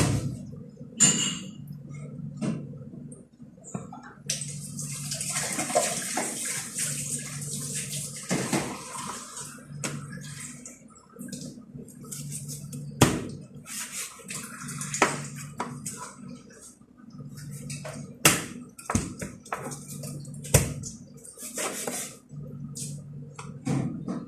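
Water running from a tap for about five seconds, then scattered sharp clinks and knocks of kitchen items, with a low hum coming and going.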